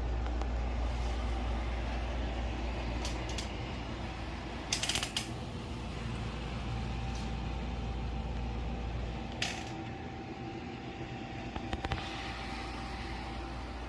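Portable camping air conditioner running with a steady hum and a faint steady tone; its deep low drone drops away about nine seconds in. A few sharp clicks and knocks cut through, the loudest about five seconds in.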